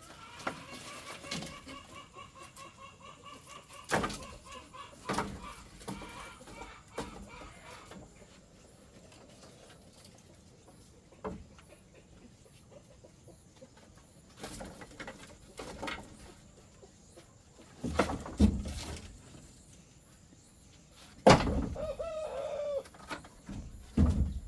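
Chickens clucking and a rooster crowing, with a pulsing call over the first several seconds and another short call near the end. Several sharp knocks, the loudest in the last third.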